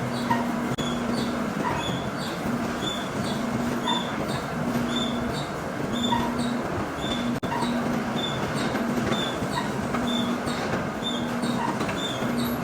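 Machine-shop machinery running steadily: a constant mechanical din, with short high-pitched tones repeating roughly once a second over a lower hum that comes and goes.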